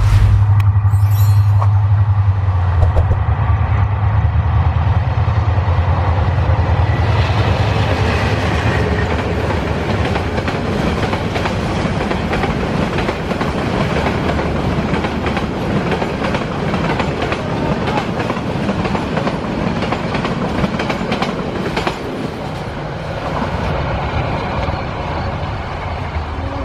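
Diesel locomotive's engine running with a deep drone as it passes, followed by passenger coaches rolling by with wheels clattering over the rail joints; the noise eases a little near the end as the train draws away.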